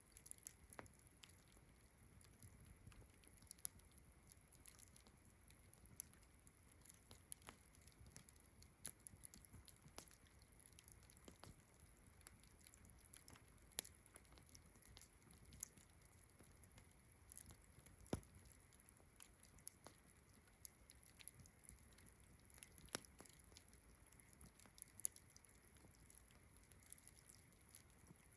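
Wood campfire crackling softly, with irregular sharp pops, the loudest about halfway through, over a faint, steady, high chirring of crickets.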